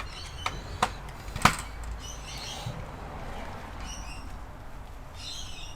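Hands working on the inside of an all-in-one computer during disassembly: a few sharp clicks and knocks of plastic and metal parts, the loudest about a second and a half in, then short scratchy scraping sounds as parts are pried and shifted.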